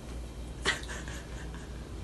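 A cat making a single short, sharp call about a third of the way in, over a low steady hum.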